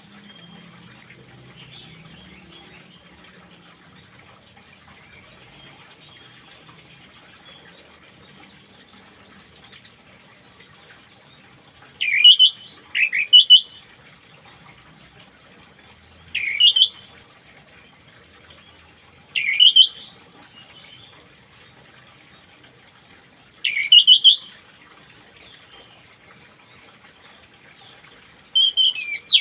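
A songbird singing short, loud phrases of gliding whistled notes, five phrases spaced roughly four seconds apart, over a faint steady rush of running water.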